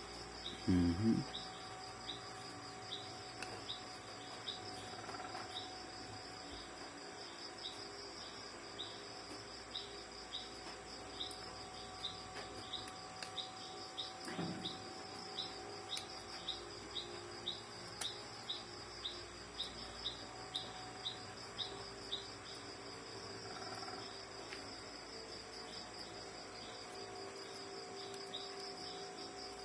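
Insects trilling steadily in the background, with a short high chirp repeated about one and a half times a second that stops a few seconds before the end.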